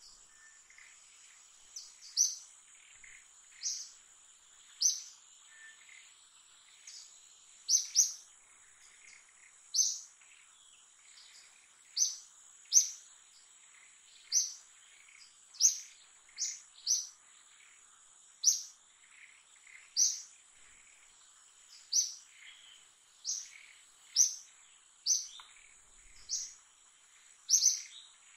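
A bird calling over and over with short, sharp, falling chirps about every one to two seconds, some in quick pairs, over a steady high-pitched insect drone.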